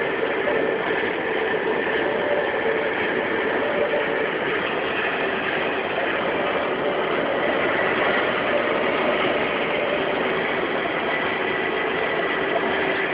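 Steady drone inside a truck cab at highway speed, engine and road noise with the wind of a blizzard against the cab, with a few faint steady tones running through it and no change in level.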